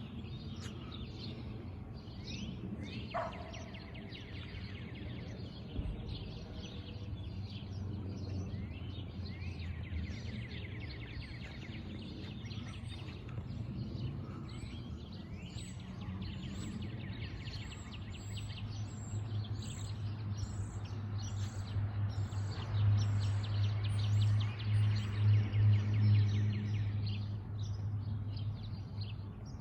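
Many small songbirds chirping and trilling continuously over steady background noise. A low droning hum underneath grows louder from about two-thirds of the way through, peaks near the end and then fades.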